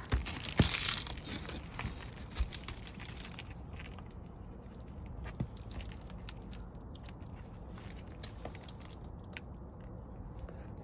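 Gritty crunching and scraping of asphalt roof shingles being handled and worked into place, loudest in the first second and a half. A few sharp knocks and clicks follow.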